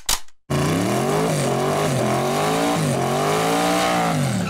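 Car engine revving, rising and dipping in pitch several times, then dropping away at the end. A short burst of noise comes just before it.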